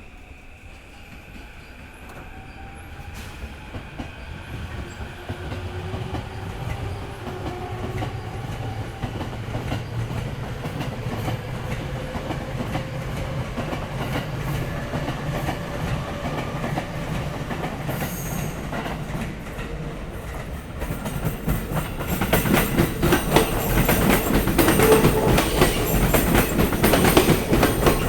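A train approaching and growing steadily louder. About 22 seconds in, its wheels start clacking loudly and rapidly over the rail joints as it passes.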